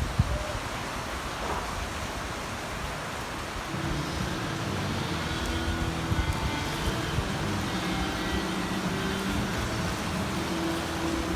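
Heavy rain pouring down in a steady hiss, with a low rumble underneath that grows louder about four seconds in.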